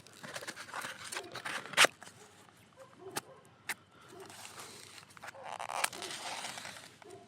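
Wood campfire crackling, with sharp pops; the loudest comes a little under two seconds in, with smaller ones after about three seconds and near six seconds.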